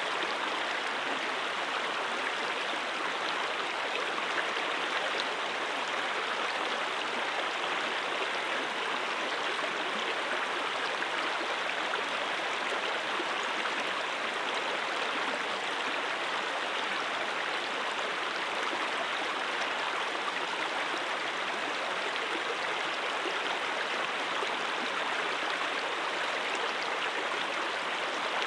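Brook water flowing in a steady, unbroken rush.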